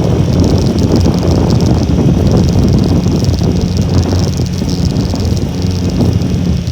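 Honda Little Cub's small single-cylinder four-stroke engine running steadily while riding, with wind buffeting the microphone.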